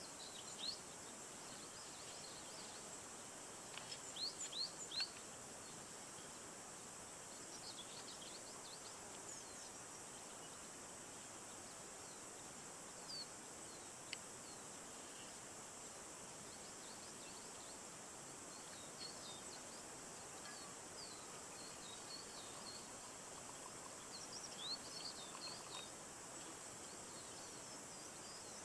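Outdoor ambience of small birds calling in short, high, quick chirps, in a cluster about four seconds in and again near the end, over a steady faint hiss with a thin high steady tone.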